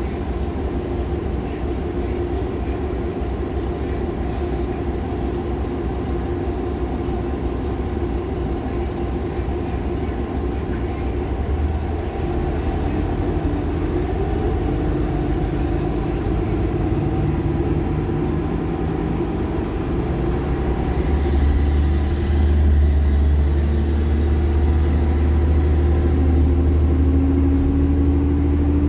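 Nova LFS Artic hybrid bus running: its Cummins ISL9 diesel and Allison H50 EP hybrid drive give a steady rumble. About two-thirds of the way in the rumble grows louder and deeper as the bus speeds up, and a thin high whine rises and then holds.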